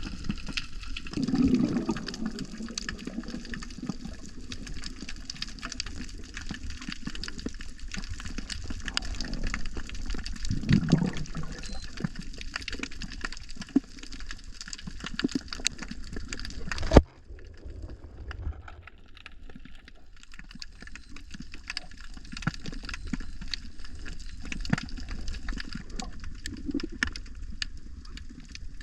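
Sea water heard underwater: a constant fine crackle of clicks over a water hiss, with low bubbling gurgles about two seconds and eleven seconds in. The sound changes abruptly about seventeen seconds in, becoming duller and quieter.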